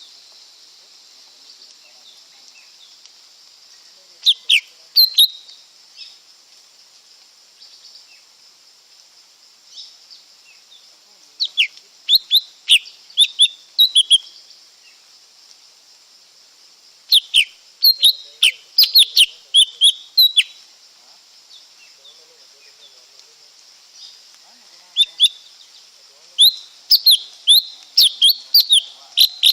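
Lesser green leafbird singing in four bouts of quick, sharp, high notes, with pauses of several seconds between them, over a steady high hiss.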